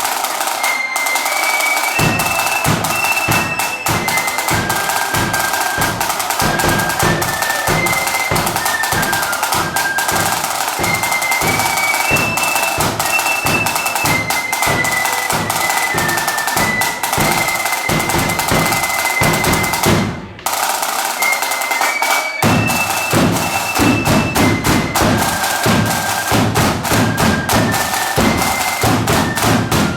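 Flute band playing a march: a high flute melody over steady snare and bass drums. The music stops briefly about twenty seconds in, then restarts with heavier bass-drum beats.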